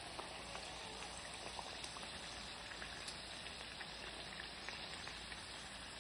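Papdi, rounds of flour dough, frying gently in ghee in a kadhai over a low flame: a soft, steady sizzle with scattered small pops.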